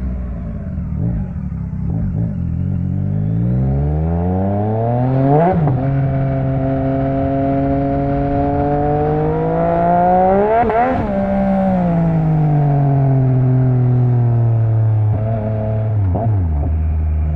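Yamaha MT-09's inline three-cylinder engine through an Akrapovic exhaust, under way: the pitch climbs as it accelerates, breaks sharply about five and a half seconds in, climbs again to a peak near eleven seconds, then falls slowly as the throttle closes and settles low near the end.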